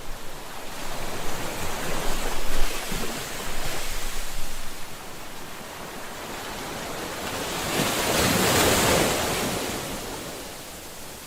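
Ocean waves breaking and washing on a shore, swelling twice: a rough, choppy surge early on and a smoother, bigger swell near the middle before it draws back.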